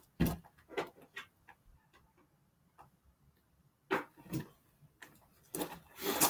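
Light clicks and knocks of BMX parts being handled: a scatter of short ticks in the first two seconds, a pause, then a few louder knocks near the end.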